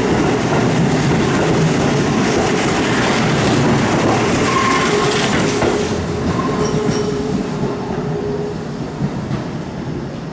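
Keihan electric train running on the tracks, its wheels clattering over the rail joints, with a thin wheel squeal in the middle; the sound fades over the second half.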